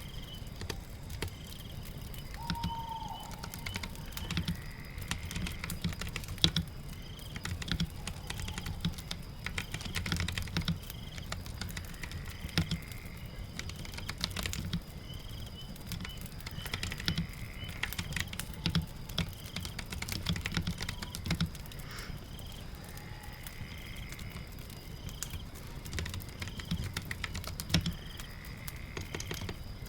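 Computer keyboard typing: irregular runs of key clicks, over a steady patter of rain.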